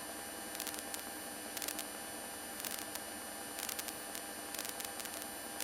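Steady hiss of a light aircraft's intercom audio, with a faint double tick about once a second: typical of the strobe lights interfering with the audio feed.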